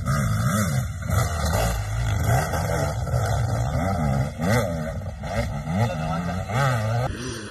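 Enduro dirt bike engine revving up and down over and over, its pitch rising and falling about twice a second as the throttle is worked on a rough section. The sound changes abruptly near the end.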